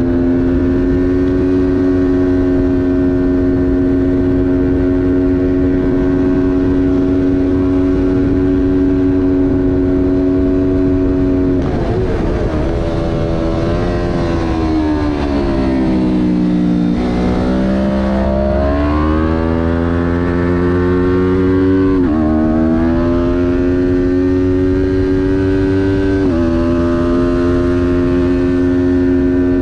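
Kawasaki Ninja 400's parallel-twin engine at high revs under racing throttle, held steady for about eleven seconds. It then drops in pitch through braking and downshifts to its lowest point around the middle, and climbs again with two upshifts before settling back at a steady high pitch.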